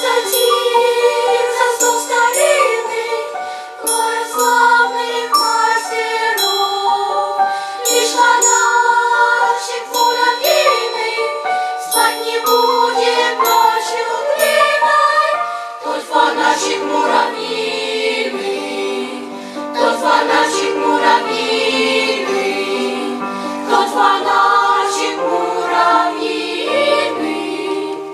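Children's choir singing a song in unison over instrumental accompaniment. A lower bass line joins about halfway through.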